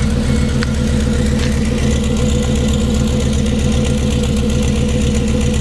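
VAZ-2114's inline-four idling steadily through a 4-2-1 'Subaru Sound' exhaust header and a 51 mm straight-through pipe, giving an even, throbbing exhaust note.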